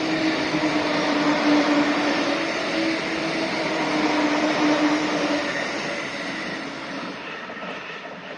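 A train passing at speed over a level crossing: loud, steady rolling noise with a steady tone running through it. The noise fades away over the last few seconds as the train recedes.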